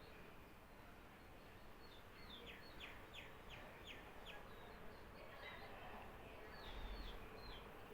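Faint bird chirping: short, quickly falling chirps, with a rapid run of them about two to four seconds in and a few more near the end, over a faint hiss.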